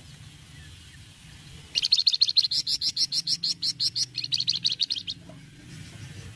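Flamboyan songbird giving a rapid rattling chatter, the 'cretetan' call, about eight sharp notes a second for some three seconds, starting a little under two seconds in. A low steady hum sits underneath.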